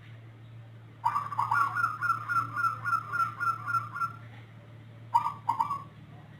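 Perkutut (zebra dove) cooing: a long run of short coos, about three a second and rising slightly in pitch, for about three seconds, then two or three short coos near the end. It is a song its owner calls unusual, unlike that of local or Bangkok perkutut. A low steady hum lies underneath.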